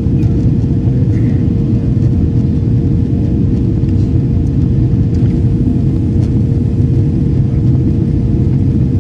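Steady loud rumble of an airliner's jet engines and airflow heard from inside the passenger cabin, with a thin steady hum on top, as the plane climbs after takeoff.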